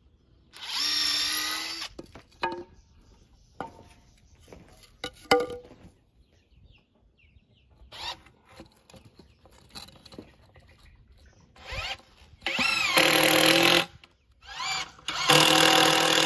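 Power drill running in short bursts: one near the start and two near the end, with a brief blip between them. Scattered light knocks and clicks come in between the bursts.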